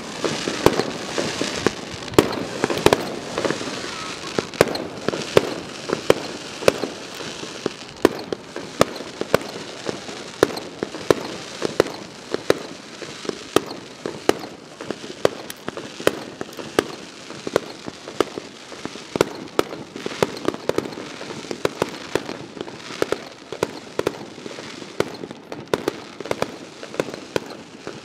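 Aerial fireworks shells bursting in a rapid, irregular run, several bangs a second over a steady crackling haze.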